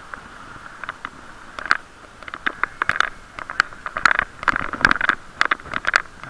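Muffled, irregular knocking, clicking and scraping picked up through a camera's waterproof case on a moving bicycle, growing busier in the second half.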